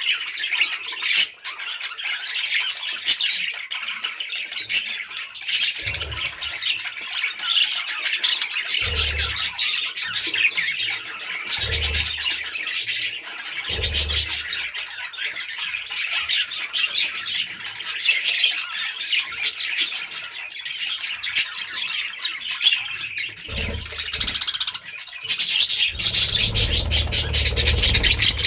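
A flock of budgerigars chattering and squawking without a break, many short high calls overlapping. Low thuds come in now and then, the heaviest run near the end.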